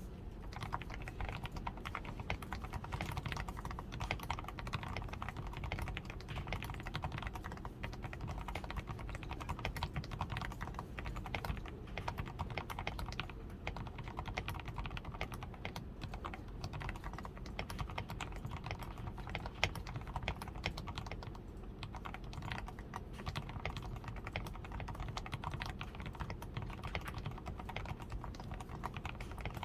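Continuous fast typing on a DAREU A87 Pro mechanical keyboard, its switches fully lubed with Krytox 105, PCB tape-modded and fitted with XDA keycaps: a dense, steady run of keystrokes with no pauses.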